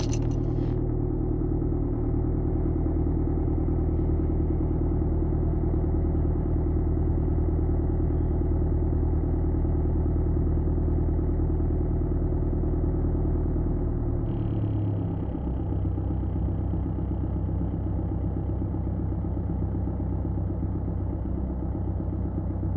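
Mercedes W203's OM646 four-cylinder diesel idling steadily just after a cold start in deep frost. About 14 seconds in, the engine's note shifts lower as the raised cold idle settles.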